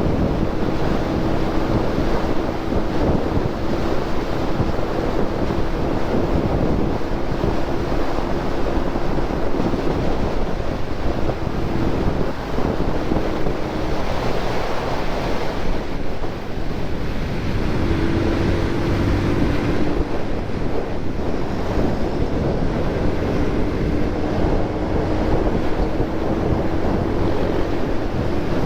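Wind rushing over the camera microphone of a motorcycle riding at speed, with the bike's engine drone faintly underneath, its pitch shifting slightly now and then.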